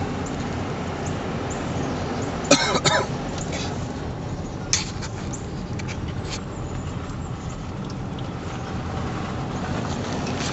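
Steady road and engine rumble inside a slowly moving car's cabin. A brief loud burst comes about two and a half seconds in, and a sharp click follows near five seconds.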